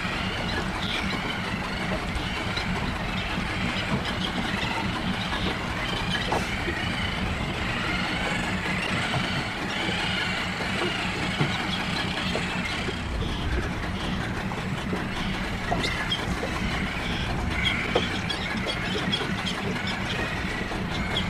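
Terns calling repeatedly at a breeding colony, short rising and falling cries, over a steady low engine hum.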